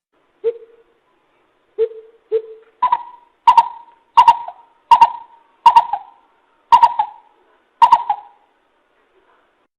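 Coucal (bìm bịp) calls played as a trapping lure: three deep hollow notes, then seven higher, slightly falling notes in a slowing series that stops about eight seconds in.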